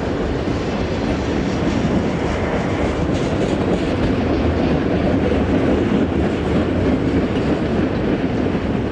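Freight train cars rolling past on the rails: a steady rumble of wheels on track with a light clatter.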